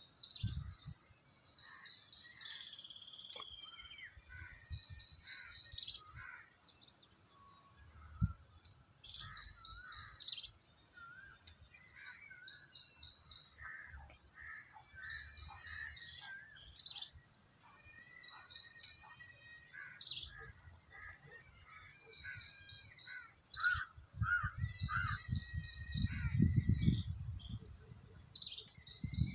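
Several birds singing and chirping, one repeating a short, high phrase of rapid notes every two seconds or so, with lower chirps and whistles in between. A low rumble runs under them for a few seconds near the end.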